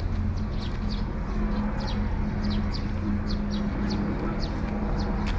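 Small birds chirping over and over, short high chirps at an uneven pace, above a steady low hum and outdoor background noise.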